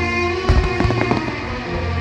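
Fireworks going off over loud show music with string instruments: held musical notes throughout, with several sharp bangs from the bursting shells in the first half and again near the end.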